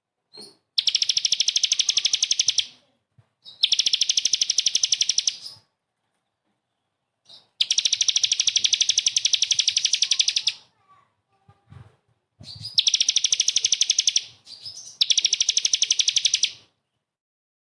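A cagebird singing harsh, rapid-fire volleys of repeated high notes, the 'tembakan kasar' used in masteran song tutoring. Five bursts of about two to three seconds each, separated by short pauses.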